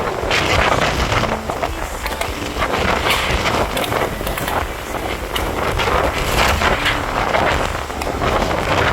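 Strong squall wind gusts rushing and buffeting the microphone with a deep rumble, surging and easing several times.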